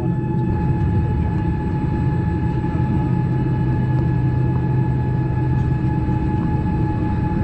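Boeing 787's hydraulic pumps running, heard inside the cabin as a steady hum of several held tones over a low rumble.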